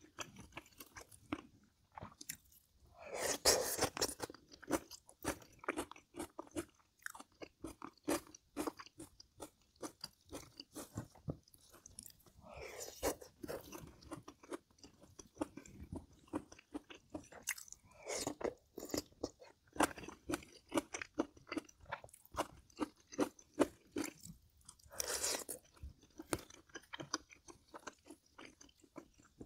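Close-up eating sounds: a person chewing and biting, with many small wet mouth clicks and crunches, and a few louder, longer bites or slurps spread through.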